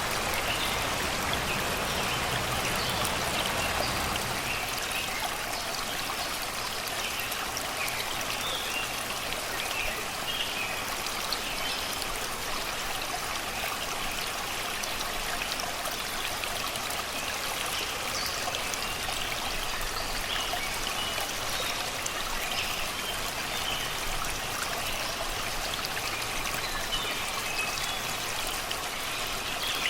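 Shallow river running over rocks and stones, a steady babbling rush of water, with songbirds chirping in the surrounding forest in short, scattered calls.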